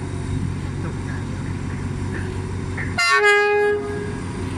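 Train horn sounding one blast of about a second, about three seconds in, over the steady low rumble of the running train.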